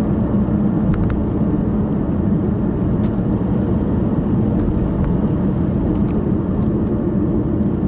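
Steady engine and road noise heard inside the cabin of a moving car, a low even rumble with a few faint ticks.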